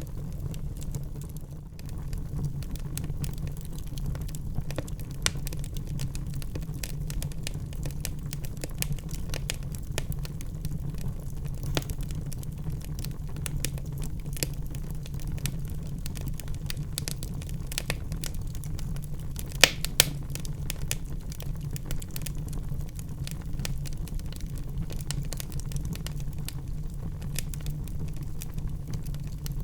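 Wood fire burning in a fireplace: a steady low rumble of the flames under a constant scatter of small crackles. About two thirds of the way through come two sharper pops, a fraction of a second apart.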